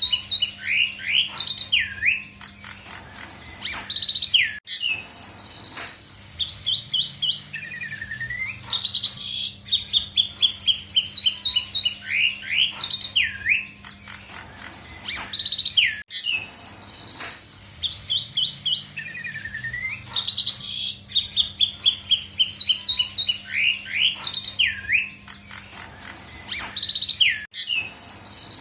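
Asian pied starling (jalak suren) singing a loud, varied 'full isian' song, full of phrases taken from other birds: quick runs of falling whistled notes, sweeping calls and chatter. The same sequence repeats about every 11 to 12 seconds, as in a looped recording, with brief sharp cut-outs. A faint steady hum runs underneath.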